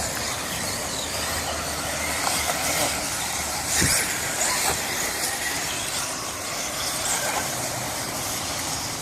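Electric 4WD off-road RC buggies racing round the track, a steady hissing whine of motors and tyres with a single knock about four seconds in.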